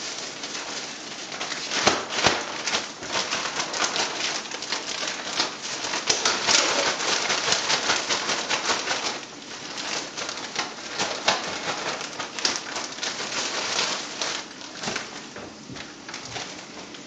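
Butter sizzling and crackling around breaded northern pike fillets frying in two nonstick pans: a steady hiss full of sharp spitting pops, louder for a few seconds in the middle.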